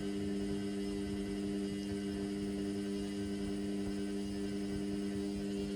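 Indesit washing machine running during a suds-overloaded synthetics wash, giving a steady electrical hum that does not change.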